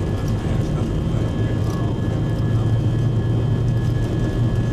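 Airbus A319 jet engines and airflow during the climb after takeoff, heard from inside the cabin as a steady low rumble with a faint high whine.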